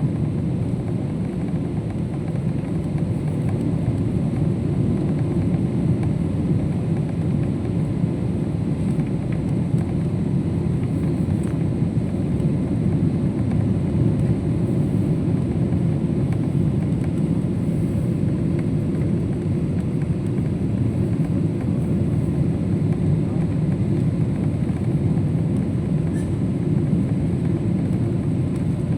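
Boeing 777 airliner cabin noise: a steady low rush of engine and airflow noise heard from inside the cabin, with faint steady tones and no breaks.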